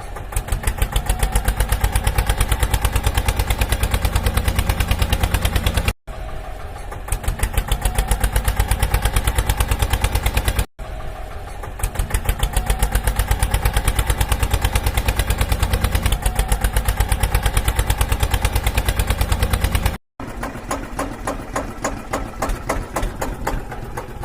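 Mini tractor engine chugging in a fast, even rhythm of about six beats a second, cut off briefly three times. In the last few seconds it is softer and less regular.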